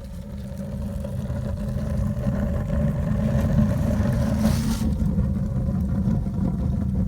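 Fire drawing in the firebox of a newly built brick corner fireplace-stove on its test firing: a low rumble of strong draught that builds over the first couple of seconds and then holds steady, with a brief hiss about four seconds in.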